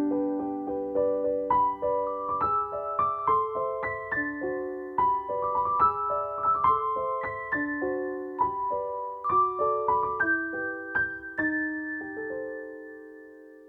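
Soft background piano music: a gentle melody of single notes, a few a second, ending on a held note that fades out near the end.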